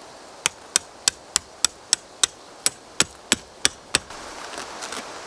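Hammering: about a dozen sharp blows in a quick, even rhythm, roughly three a second, stopping about four seconds in.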